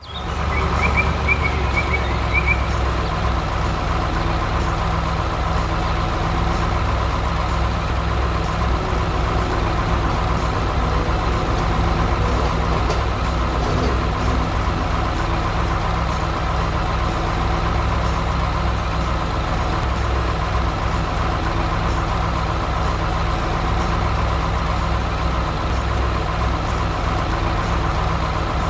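Heavy construction-vehicle diesel engine running steadily at an even level, with a few brief high chirps in the first couple of seconds.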